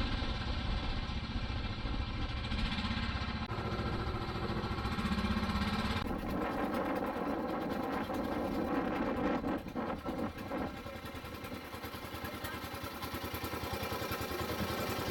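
Tour boat engine running steadily with an even, pitched drone.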